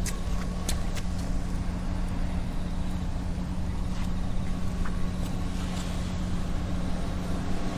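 Steady low rumble and constant hum, like a nearby engine or traffic, with a few faint ticks scattered through it.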